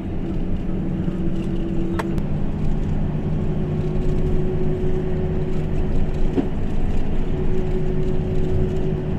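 Motor vehicle engine running steadily with a low hum; its pitch steps a little about two seconds in, where there is a short click.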